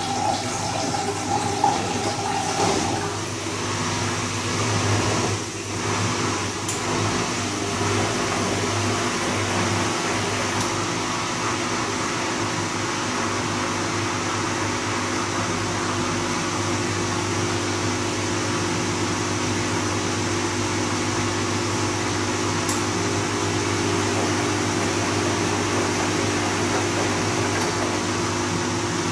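Bosch Serie 2 VarioPerfect washing machine at work: water rushes through it for the first few seconds, then it settles into a steady mechanical hum from its motor or pump.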